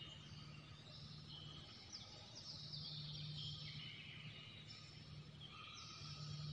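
Faint chirping and twittering of birds, many overlapping high notes, over a low steady hum.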